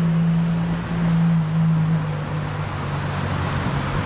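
Ferrari LaFerrari Aperta's 6.3-litre V12 running at low revs as the car drives slowly past and away, a steady low drone that dips a little in pitch about halfway, over a rushing hiss.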